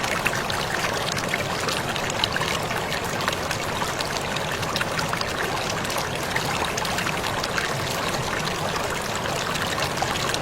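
Waterfall splashing steadily: an even rush of falling water with many small drips and splashes scattered through it.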